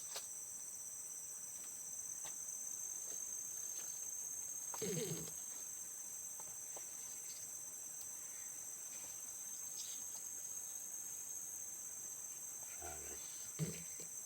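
Steady insect chorus of crickets or cicadas, a shrill high drone. A short low voice-like sound comes about five seconds in and again near the end.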